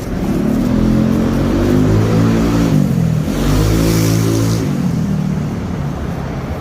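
A motor vehicle's engine accelerating: its pitch climbs, drops about three seconds in as it changes gear, climbs again, then fades away.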